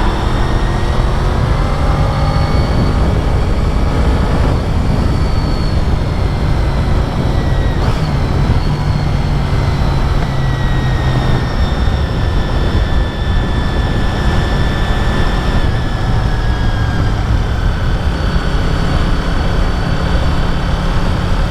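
Honda VFR750's V4 engine running under way, heard over steady wind noise. Its note glides slowly up and down with the throttle, and there are no sharp changes.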